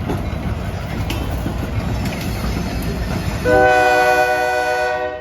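Freight train of covered hopper cars rolling past, a steady low rumble with wheel clicks. About three and a half seconds in, a diesel locomotive's horn sounds one steady chord for about a second and a half.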